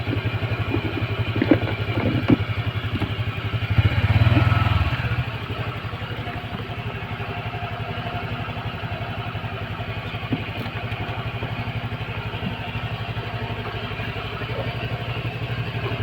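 Motorcycle engine running at low revs with an even, steady pulse, swelling louder for about a second around four seconds in.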